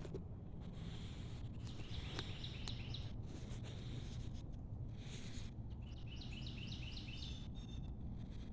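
A songbird singing two short phrases of quickly repeated high notes, a few seconds apart, over a steady low rumble of outdoor background noise.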